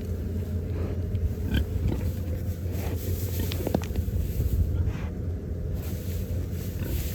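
Pigs grunting a few times over a steady low rumble.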